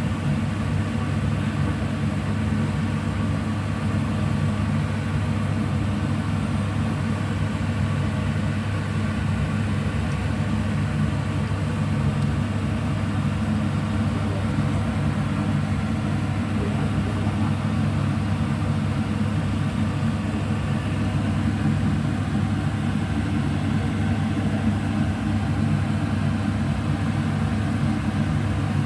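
Steady low mechanical hum of a running motor, even in level throughout, with several fixed tones under the hum.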